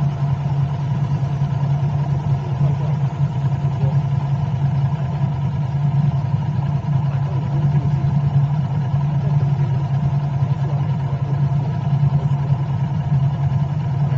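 A vehicle running steadily through city traffic: a constant low engine and road drone with no sudden changes.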